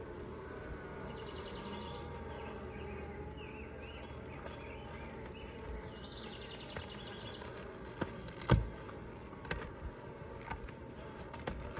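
Honeybees buzzing around an open Layens horizontal hive, a steady hum. Several sharp knocks and clicks from the wooden frames and hive being handled come near the end, the loudest about eight and a half seconds in.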